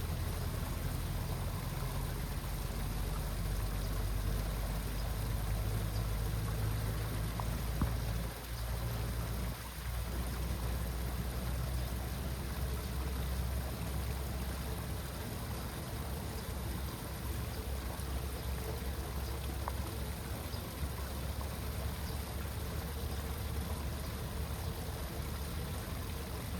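Water rushing steadily, with a deep low rumble, as it drains away through a cleared drain or culvert.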